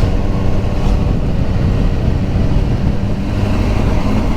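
BMW S1000R motorcycle's inline-four engine running steadily while riding along.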